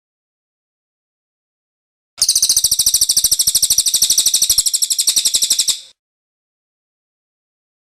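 Cililin bird's rolling song (ngerol): one fast trill of sharp, evenly repeated high notes, about a dozen a second, lasting about three and a half seconds and starting about two seconds in. It is a looped recording used as a song tutor and lure.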